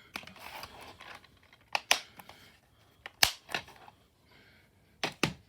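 Plastic DVD case being handled: a short rustle, then three pairs of sharp plastic clicks and clacks spread across a few seconds.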